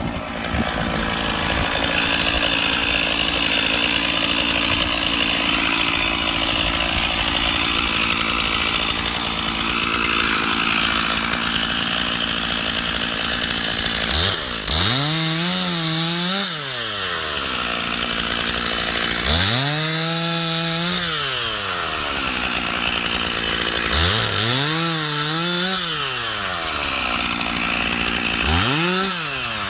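Stihl 461 two-stroke chainsaw cutting through ash logs steadily for about half the time, then revved up and let back down four times, its engine pitch climbing and falling each time.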